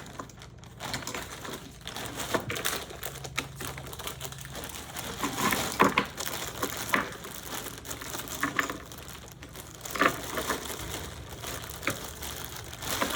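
Plastic packaging crinkling and small hard items clicking and knocking together as kit accessories are rummaged through by hand, with a few louder knocks about six and ten seconds in.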